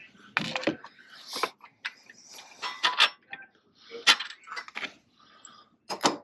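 Hand tools and metal engine parts clinking, knocking and scraping in irregular strokes during hands-on engine work. The sharpest clanks come about half a second in, around three and four seconds, and near the end.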